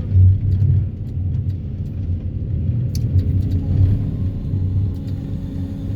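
Excavator running with a Daedong DTD350T vibro hammer attachment while pulling steel sheet piles: a steady low rumble with a pulsing texture, with a brief sharp click about three seconds in.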